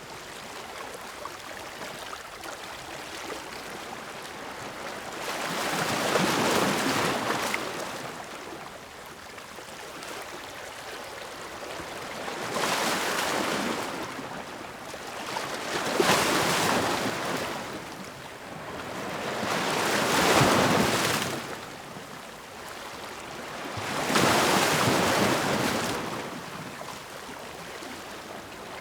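Ocean surf: waves breaking and washing in, in about five surges that each swell and fade over a few seconds.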